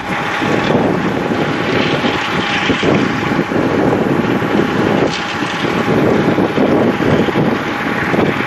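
Wind buffeting the microphone in a loud, uneven rumble, with a steady thin tone running underneath.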